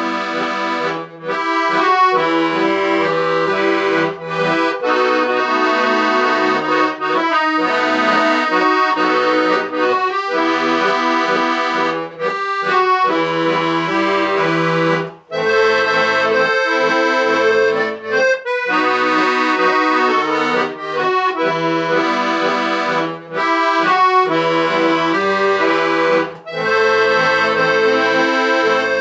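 Accordion playing a melody over chords, in phrases with short pauses between them.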